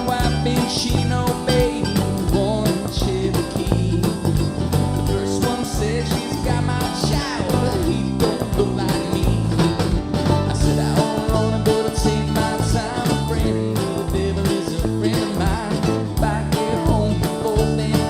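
Live band playing a mid-tempo country-rock song with guitars, bass and drum kit.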